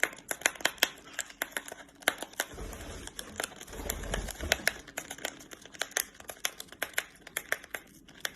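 A pet bird tearing open a tea packet with its beak: a quick, irregular run of crinkling and snapping clicks, several a second, with a low rumble for a couple of seconds midway.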